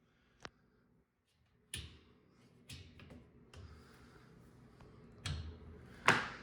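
A series of knocks and scrapes with a rustling noise between them, the loudest knock near the end: a furnace filter being handled and worked out of its slot in the furnace.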